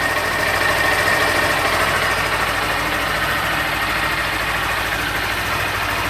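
Honda CG 160 Fan's single-cylinder four-stroke engine idling steadily. It is running normally, with no abnormal engine noise by the owner's account, close to 6,000 km.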